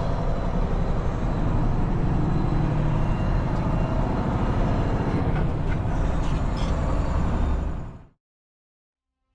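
Heavy-haul semi truck running, a steady low rumble of engine and road noise that fades out about eight seconds in to silence.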